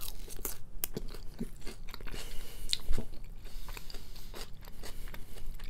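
Close-up crunching and chewing of a mouthful of fried clam strip with noodles, a run of irregular crackly crunches with one sharper crunch about three seconds in.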